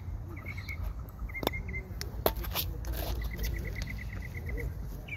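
A bird chirping in short runs of quick high notes, one run of about eight notes a second past the middle, with a few sharp clicks, the loudest about two seconds in.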